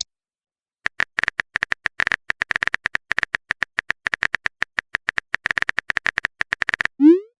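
Rapid, irregular phone-keyboard typing clicks, several a second, for about six seconds, then a short rising swoop near the end as a chat message is sent.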